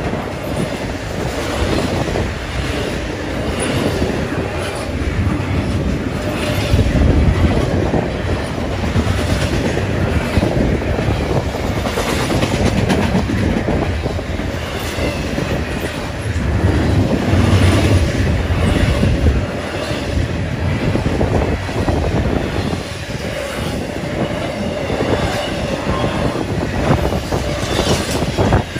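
Norfolk Southern intermodal freight train passing close by: a steady rumble of double-stack container cars, with the wheels clacking over the rail joints.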